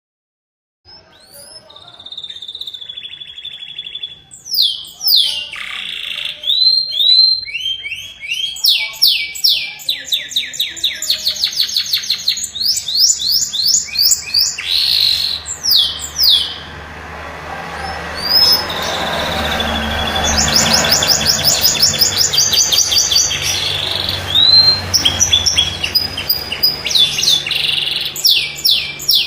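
Domestic canary singing a long, varied song, starting about a second in: rapid trills of repeated high notes, rising slurred whistles and a held high note, sung almost without pause.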